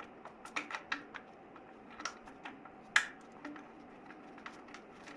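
Irregular light clicks and taps of hand tools and the new drain plug as it is fitted with its copper crush washer under the oil pan, with a louder clack about three seconds in.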